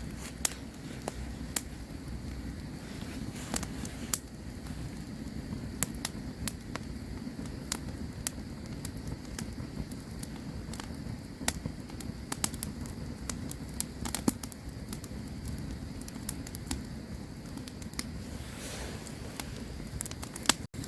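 Campfire crackling: irregular sharp pops and snaps, several a second, over the steady low rumble of the burning fire.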